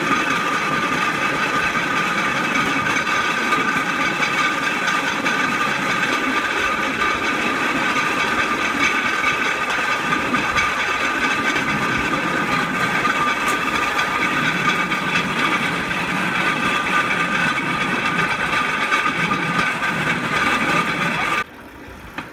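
Four-wheeled pedal rail bike rolling along railroad track: its wheels on the rails make a loud, steady hum with several held tones. The sound cuts off suddenly near the end.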